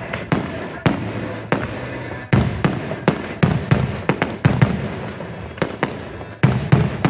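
Fireworks going off in a string of sharp, irregular bangs, a few at first and then several a second from about two seconds in.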